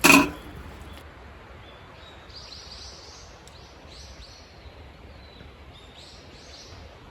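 Steady outdoor background noise with a small bird calling in three short high bursts, after a brief loud sound right at the start.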